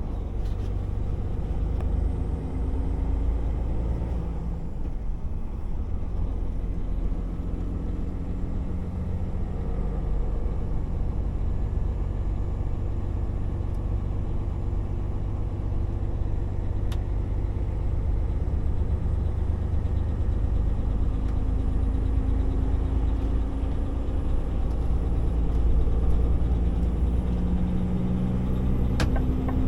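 DAF XF 480 truck driving: a steady low engine and road rumble, the engine note rising and falling slightly, with a couple of short sharp clicks.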